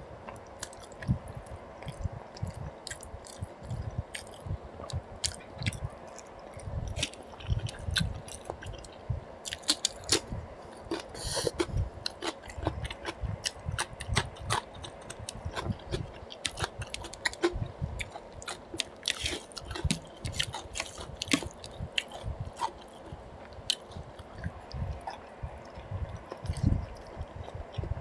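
Close-miked eating sounds: wet chewing, biting and lip-smacking on mutton paya (goat trotter) curry and rice eaten by hand, with many sharp irregular clicks.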